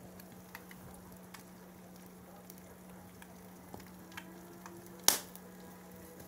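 Egg frying in a pan over a fireplace fire: a soft sizzle with scattered small pops, under a steady low hum. One sharp click about five seconds in.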